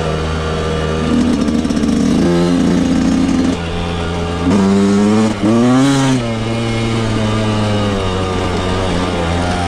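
Yamaha YZ125 two-stroke motocross engine running under throttle, with a sharp blip of revs about halfway through, a quick drop and a second rise and fall, then steady running.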